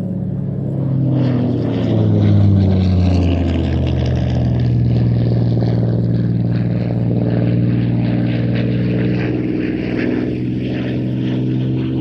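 Supermarine Spitfire LF IX's Rolls-Royce Merlin V12 engine running in a display pass, its pitch dropping as it goes by about two seconds in, then holding steady.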